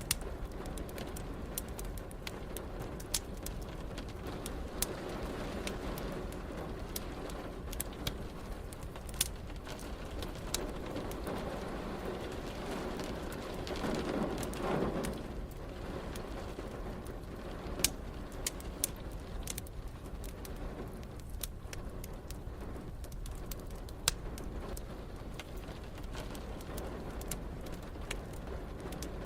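Wood fire crackling with scattered sharp pops over a steady hiss of rain. A low rumble, most likely distant thunder, swells for about two seconds about halfway through.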